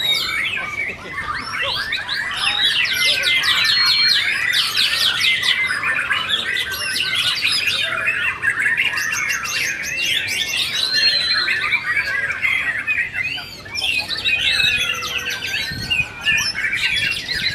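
Several white-rumped shamas singing at once, a dense overlapping tangle of rapid trills, chatters and whistles that never lets up.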